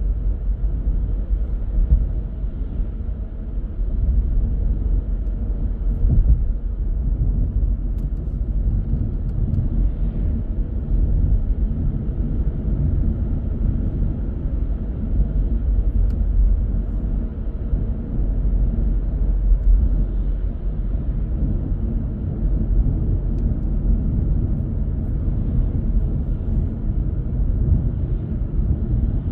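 A car driving at a steady pace: an even, low rumble of road and engine noise.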